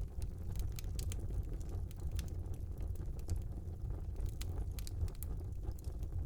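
Fire burning in a small fireplace: a steady low rumble of the flames with frequent sharp crackles and pops, several a second.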